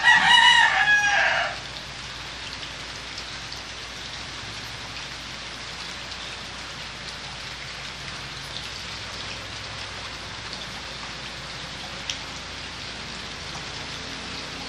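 A loud, drawn-out animal call with a falling end, about a second and a half long, at the start, over a steady hiss of rain-like noise.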